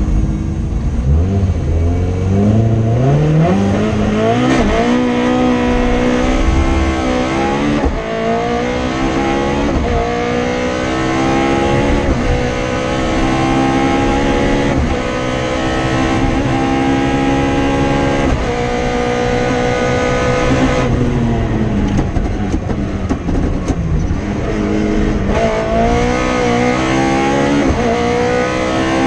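Toyota Starlet KP61 rally car's 4A-GE four-cylinder engine heard from inside the cabin, revving hard up through the gears. Each quick upshift drops the pitch before it climbs again. About two-thirds of the way through it comes off the throttle and the engine note falls, then it picks up and revs hard again.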